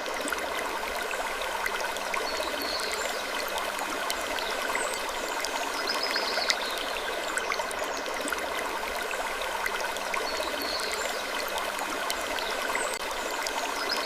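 Steady rushing of flowing water, like a stream, with faint short squeaks and ticks recurring every few seconds.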